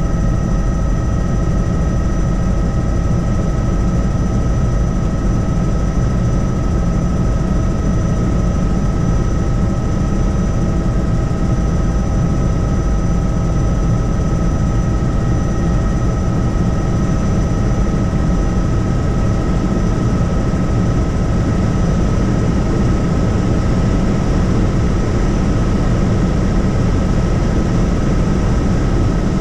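Helicopter in steady flight, heard from on board: a loud, even drone of rotor and engine with a steady high whine running through it.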